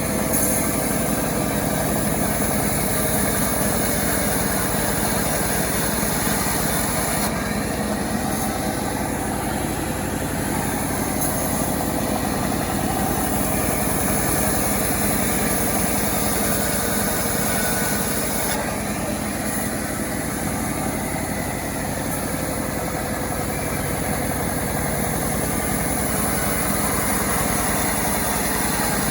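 Home-built chainsaw's small petrol engine running steadily. Its sound shifts about seven seconds in and again near nineteen seconds.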